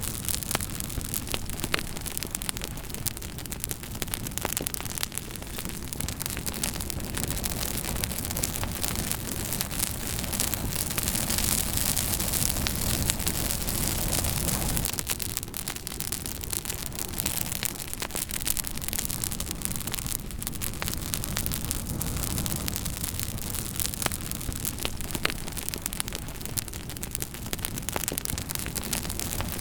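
Wood campfire burning, with frequent sharp crackles and pops over a steady hiss and low rumble.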